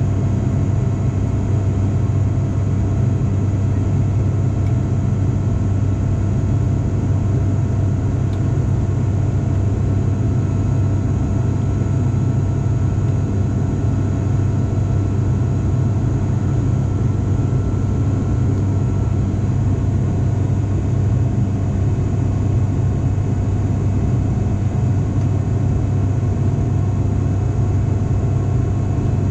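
Steady cabin drone of an ATR 42-500's turboprop engines and six-bladed propellers in flight: a deep, even hum with faint steady whines above it.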